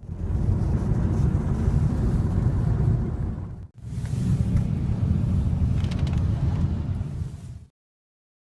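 Loud, steady low rumbling noise in two stretches, broken by an abrupt cut about halfway through.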